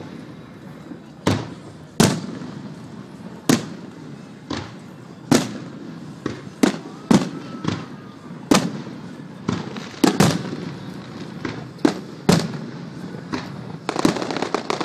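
Aerial firework shells bursting, a string of sharp booms about one a second, each with a short rumbling tail. The bursts come closer together near the end.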